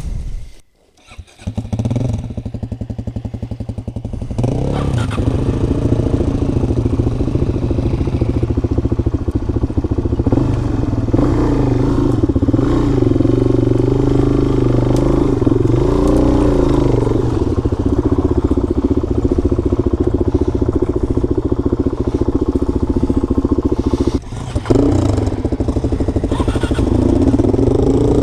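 Dual-sport motorcycle engine that cuts out for a moment about a second in, picks up again with a quick even pulse, then runs under throttle on a dirt trail with revs rising and falling. Near the end the revs dip briefly, followed by a sharp blip.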